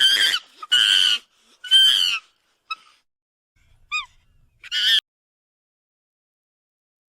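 Six short, high-pitched animal calls: three strong ones about a second apart, then two faint brief chirps, then one more strong call about five seconds in.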